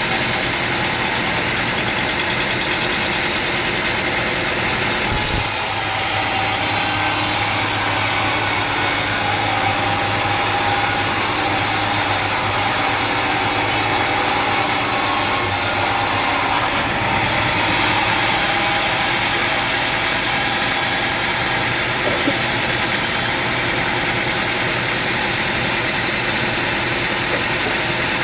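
Sawmill machinery running steadily, a continuous mechanical drone with hiss. The sound shifts briefly about five seconds in, and the high hiss drops away around sixteen seconds.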